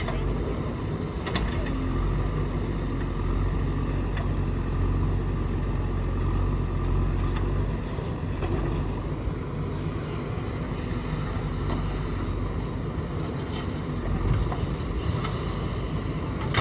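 JCB 3DX backhoe loader's diesel engine running steadily with a low rumble, easing slightly about halfway through, with a few faint knocks.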